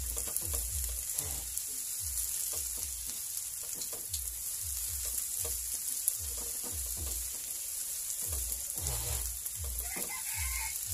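Chopped onions, tomatoes and bell pepper sizzling steadily in a nonstick frying pan while a silicone spatula stirs them, each stroke giving a soft knock against the pan, about two or three a second.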